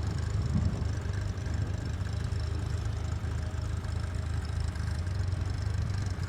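Tractor engine running steadily at a low, even rumble.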